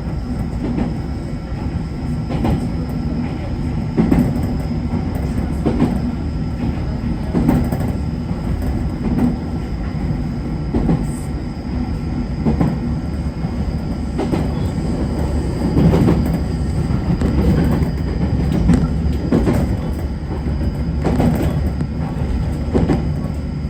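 JR Kyushu 811 series electric train running at speed, heard from inside the front car: a steady rumble with the wheels knocking over rail joints every second and a half to two seconds.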